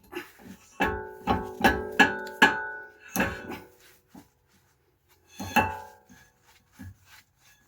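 A series of sharp metal-on-metal strikes, about five in quick succession and then two more spaced out, each leaving a short ringing tone at the same pitches, like a struck steel part.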